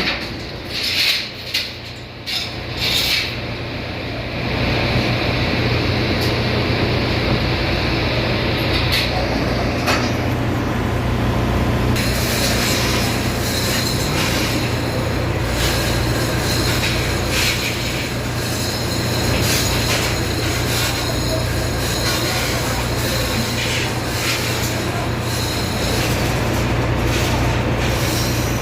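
Steady machinery drone with metal clanking, rattling and scraping, loudest and most frequent over the second half.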